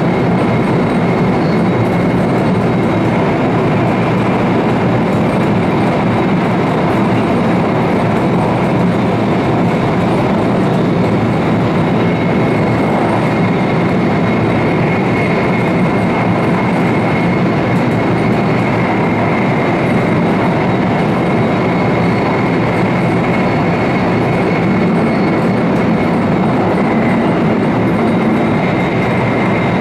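E4 series double-deck Shinkansen running at speed, heard inside the deck (vestibule): a loud, steady rumble of wheels and rushing air with a thin, steady high whine over it.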